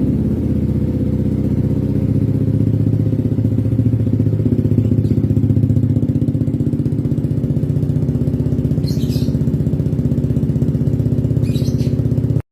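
Yamaha Vixion motorcycle's single-cylinder engine idling steadily through an aftermarket racing exhaust, with an even, unchanging pulse.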